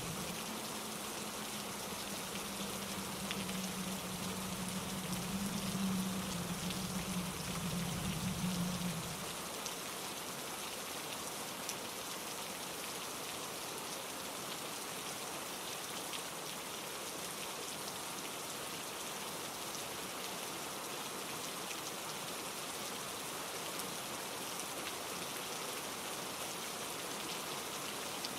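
Steady rain falling on leaves and ground, an even hiss of drops. For the first third a low rumble sits under it, then stops about nine seconds in.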